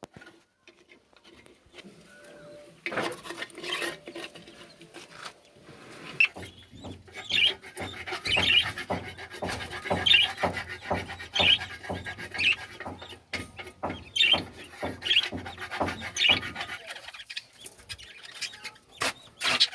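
Budgerigars chirping in short repeated calls, about one a second, over a busy run of small clicks and scrapes, with a low hum underneath for much of it.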